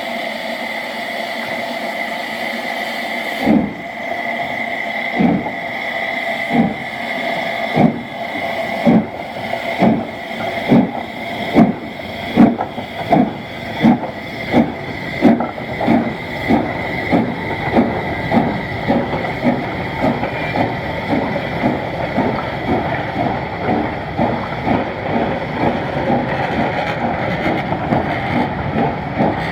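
Southern S15 Maunsell 4-6-0 steam locomotive starting away: a steady hiss of steam, then, about three seconds in, loud exhaust chuffs that begin slow and quicken steadily as the engine picks up speed, growing softer toward the end.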